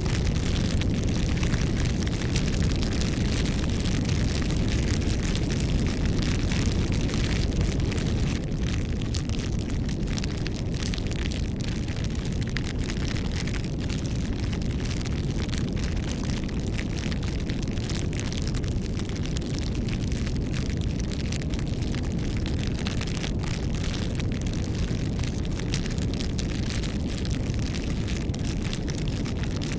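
Wood fire burning steadily: a low rumble of flames under a constant stream of small crackles and pops from the burning wood.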